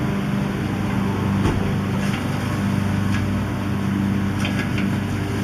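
Demolition excavator's diesel engine running steadily, with a few short knocks of debris or the machine's steel working against the house, one about a second and a half in and a small cluster near the end.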